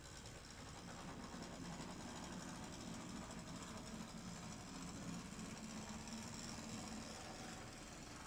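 HO-scale brass model steam locomotive, a Great Northern G-3 4-8-0, running along the track: its can motor and drive gearing give a steady mechanical whir and hum.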